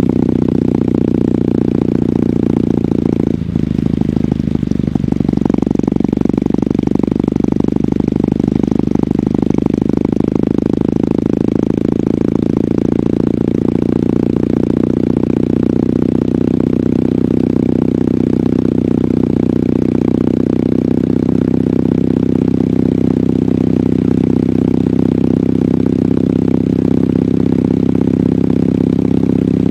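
Kawasaki W800's air-cooled parallel-twin engine running through its stock exhaust while riding, at a steady pitch. A brief dip in the sound about three and a half seconds in.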